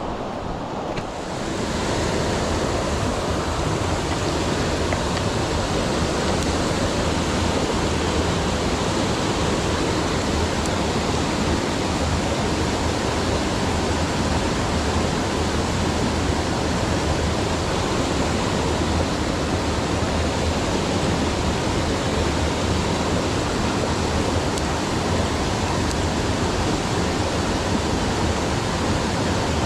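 Mountain stream water rushing and splashing over rocks, a steady full hiss that swells about a second in and then holds even.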